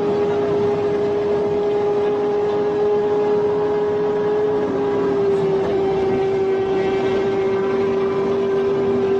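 Audi R8's engine running hard at about 265 km/h, heard from inside the cabin: a steady drone that dips slightly in pitch about halfway through, over constant wind and road noise.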